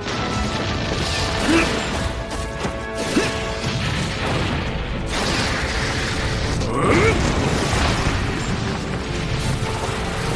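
Anime sound effects of the aftermath of a huge blast: a steady rumbling of debris and dust under background music, with a few short sliding tones about one and a half, three and seven seconds in.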